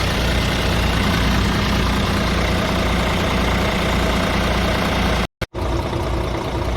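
Scania R500 truck's 13-litre inline-six diesel idling steadily. The sound cuts out completely for a moment about five seconds in, then resumes.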